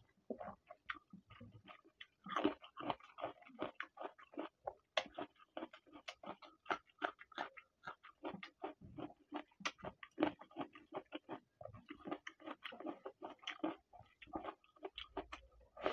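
Wet, open-mouthed chewing and lip smacking as chicken kosha curry and white rice are eaten by hand: a fast, irregular run of short mouth clicks and smacks.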